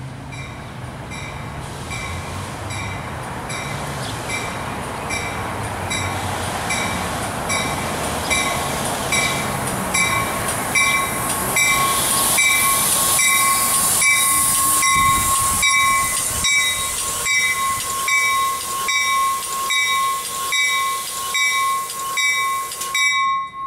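A push-pull commuter train arriving at a station. A bell rings about twice a second throughout, while the wheel and rail noise builds as the cab car passes close, loudest a little past the middle, and a steady high squeal grows under it as the train slows. It all cuts off suddenly near the end.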